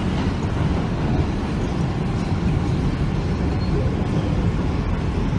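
Steady low rumble and running noise of a moving train, unbroken throughout.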